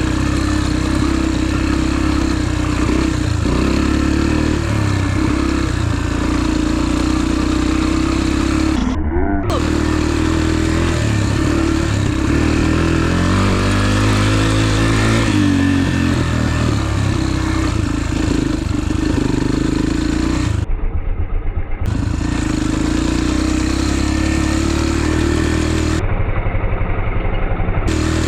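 Dirt bike engine running under way, its pitch rising and falling as it revs through the gears, over a steady rushing hiss. The hiss cuts out briefly a few times.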